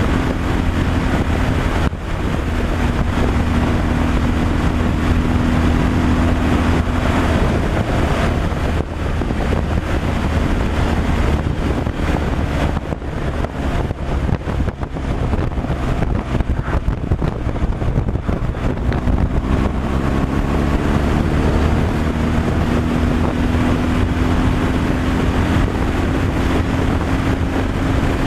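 Tractor-trailer truck driving, its engine running steadily under road and wind noise. The engine note dips briefly about two seconds in and rises slowly over the last several seconds.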